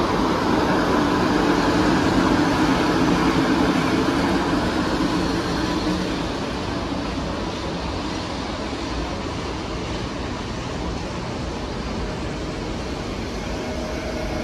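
A train running past, a steady rumble that drops to a lower level about halfway through.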